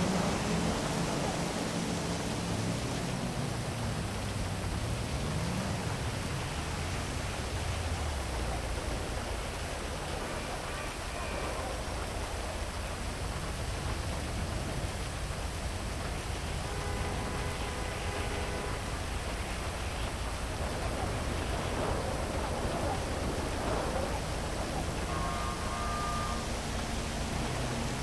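Heavy rain falling steadily over a city, with traffic running beneath it. A vehicle's engine rises and falls in pitch in the first few seconds and again near the end, and faint short tones sound a few times in between.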